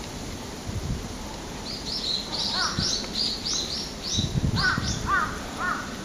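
Wild birds calling: a fast run of high, arching chirps starts a couple of seconds in, with a few lower notes joining in near the end. Low rumbles come about a second in and again at about four seconds.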